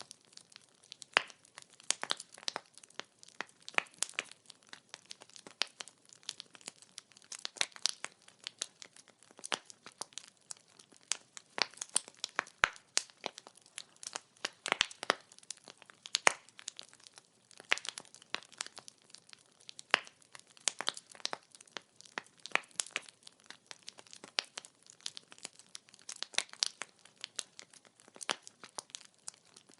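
Wood fire burning with dense, irregular crackling and popping of the burning firewood, sharp snaps scattered over a faint steady hiss.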